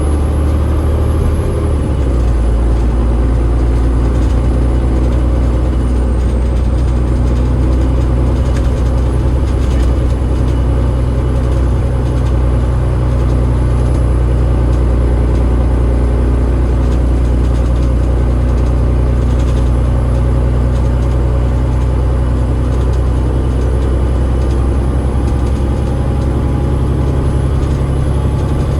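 Cummins ISL8.9 diesel engine of an Alexander Dennis Enviro500 MMC double-decker bus running steadily, heard from on board as a loud, even low drone that grows fuller about two seconds in. A faint high-pitched whine sits above it.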